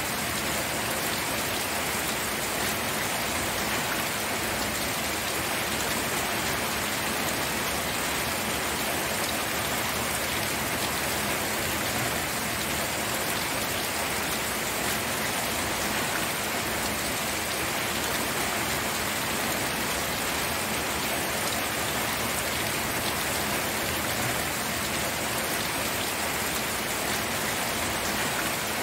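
Steady rain falling and pattering on a surface, an even hiss that stays at the same level throughout.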